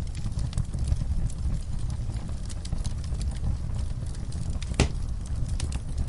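Wood fire burning in a fireplace, a low steady rumble of flames with frequent small crackles and pops, one sharper pop a little before five seconds in.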